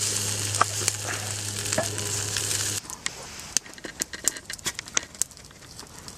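Food sizzling in a pan over a campfire, with a steady low hum under it, cutting off abruptly a little before halfway; then quieter, scattered sharp crackles and clicks.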